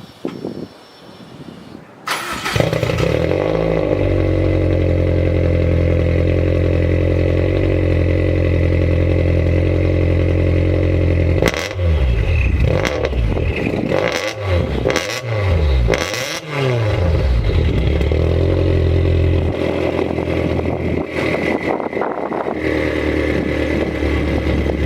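Tommy Kaira M20b2.2's turbocharged flat-four, fitted with equal-length headers and a Buddy Club Racing Spec IV muffler, starting up about two seconds in and settling into a steady idle. Around the middle it is given a series of quick throttle blips, each rising and falling in pitch, then it drops back to idle.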